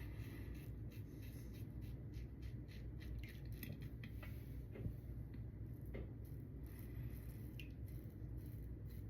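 Lambda Ares v2 safety razor with a Tatra blade cutting through lathered stubble: a faint, crisp scratching made of many small ticks, stroke after stroke.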